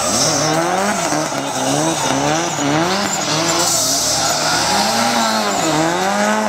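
Mitsubishi Lancer Evolution VI's turbocharged four-cylinder engine revved hard and lifted off repeatedly, the pitch climbing and falling about once a second, as the car is driven sideways around cones, with tyres squealing on the tarmac.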